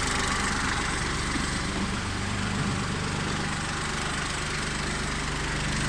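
Kubota tractor engine idling steadily while the tractor stands with the handbrake on.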